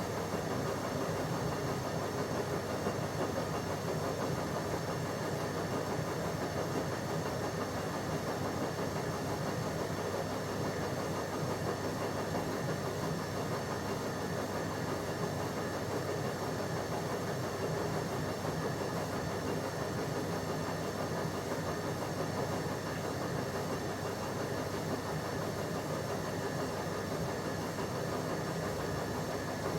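Bauknecht WA PURE ST 14 FLD washing machine running its steam self-cleaning program, its drum turning while the steam generator blows hot steam into the tub and hoses. A steady mechanical running noise.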